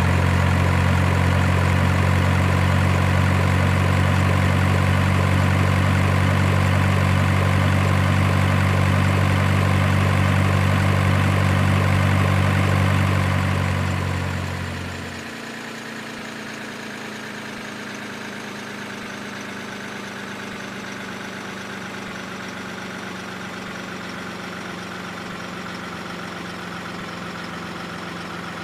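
Truck engine idling steadily. About fourteen seconds in it fades down to a quieter, thinner idle that holds steady to the end.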